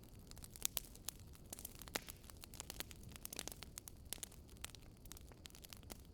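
Wood fire burning in a fireplace, crackling with irregular sharp pops and snaps over a low steady rumble of the burning logs; a couple of louder snaps come about a second and two seconds in.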